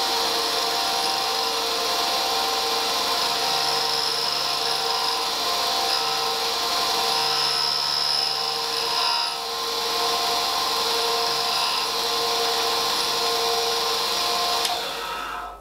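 Clarkson tool and cutter grinder running with its wheel grinding a tooth of a horizontal-milling gear cutter: a steady motor hum with a grinding hiss that grows brighter now and then, and the machine stops near the end.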